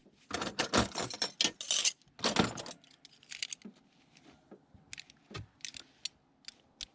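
Small metal items clinking and rattling as they are handled and gathered up: a dense clatter over the first three seconds, then scattered single clinks.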